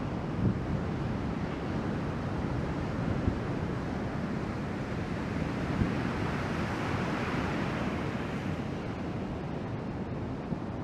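Ocean surf washing steadily, swelling a little about two-thirds of the way through, with wind rumbling on the microphone.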